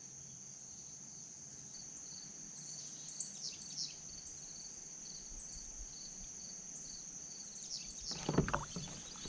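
Insects droning in one steady high tone, with a lower, evenly pulsing call beneath it; a few short chirps come about three to four seconds in, and some rustling and knocks near the end.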